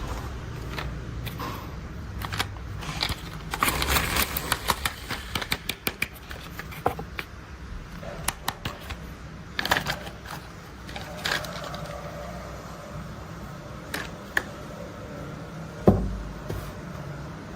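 Plastic toy construction vehicles handled and tapped: scattered clicks, taps and light rattles, with a quick run of ticks a few seconds in and a single louder knock near the end.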